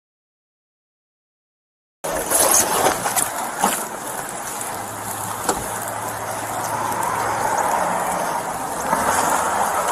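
Audio cuts in about two seconds in: steady rushing vehicle and road noise with scattered clicks and knocks.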